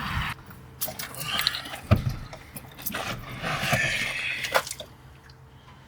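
Clicks, scraping and a knock of plastic and metal fittings being handled as a potable water tank's fill cap or hose fitting is screwed tight. The sharpest knock comes about two seconds in.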